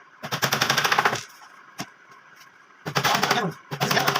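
Power tool rattling with rapid repeated strikes in two bursts of about a second each, with a short pause between.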